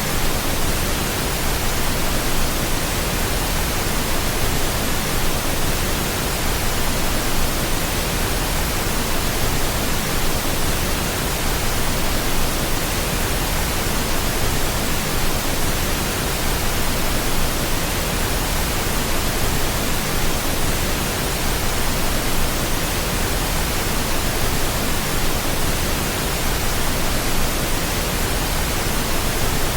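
Steady pink noise: an even, unbroken hiss that spreads across the whole range of pitch and does not change.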